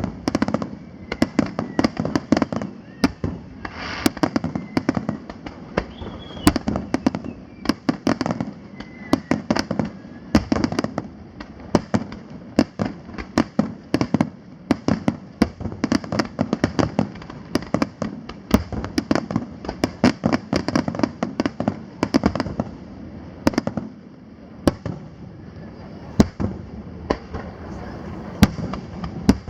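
Aerial fireworks going off in rapid succession: a dense stream of sharp bangs and crackling pops, several a second, with the sound starting abruptly.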